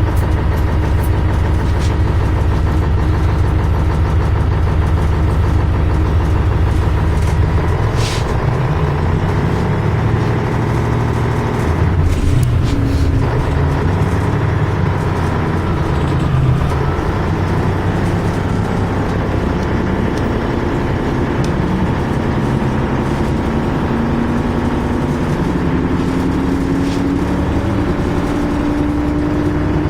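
MAZ-104 city bus's diesel engine heard from inside the bus, running steadily, with a short air hiss about eight seconds in. After that the engine note changes, and near the end its pitch rises steadily as the bus accelerates.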